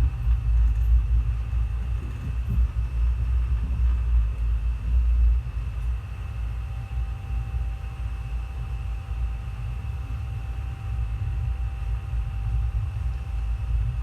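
Passenger train running, heard from on board: a steady low rumble that eases a little about five seconds in, with a faint steady whine above it.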